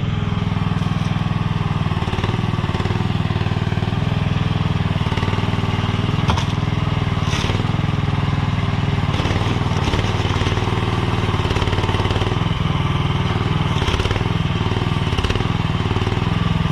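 Mini skid steer's small engine running steadily, working the machine, with a few brief clunks as the bucket digs into a pile of wet, heavy sand.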